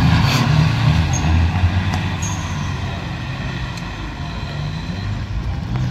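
Engines of several off-road 4x4 SUVs running and revving in mud, loudest in the first couple of seconds and then easing off.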